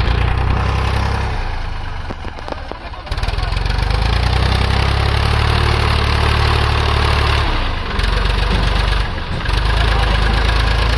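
Tractor diesel engine running under load, a loud steady low throb that eases briefly about three seconds in and again near the nine-second mark.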